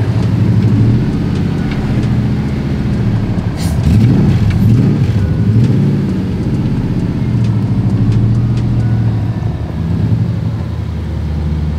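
Motor vehicle engine running as it drives, the revs rising and falling a few times around the middle before settling back to a steady pitch.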